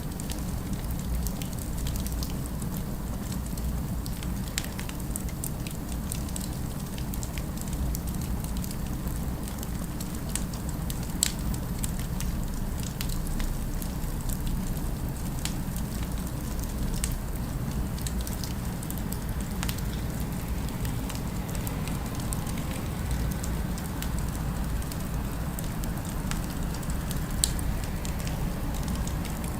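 Fireplace crackling: scattered small crackles over a steady low rumble, with two louder pops, one about a third of the way in and one near the end.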